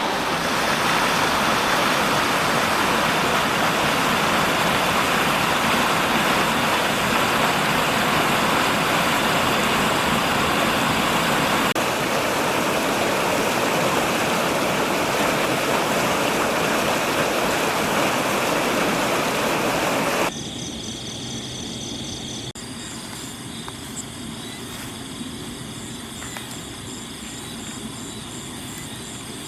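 Steady rushing water for about twenty seconds, then an abrupt cut to quieter night insects chirping in high, repeating pulses.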